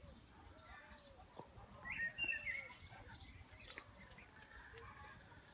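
Garden birds chirping and singing, faint and scattered, with a louder burst of chirps about two seconds in.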